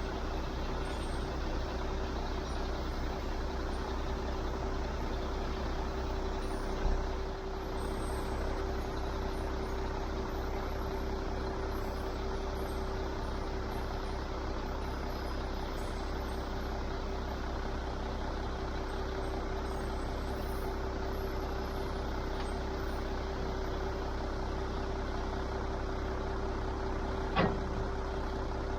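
Truck engine running steadily, with a constant hum. Two brief knocks sound, one about seven seconds in and one near the end.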